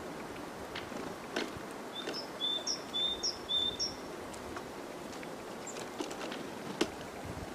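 A small songbird calling in the forest: a high two-note phrase, the first note higher than the second, repeated about four times in quick succession about two seconds in. A few sharp taps come before and after it.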